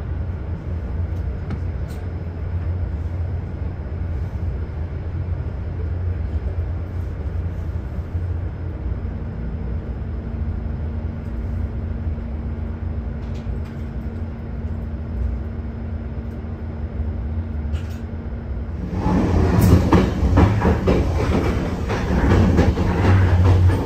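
Passenger train running on the rails with a steady low rumble and a steady hum that comes in partway through. About 19 s in it gets louder, with a rapid clatter of wheels over rail joints or points.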